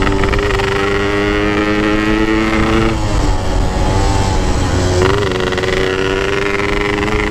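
Motorcycle engine under way, its pitch climbing steadily under throttle, dropping abruptly about three seconds in, then climbing again from about five seconds in, with wind buffeting the microphone. The engine has a newly fitted oversize piston and its carburettor is still set too rich.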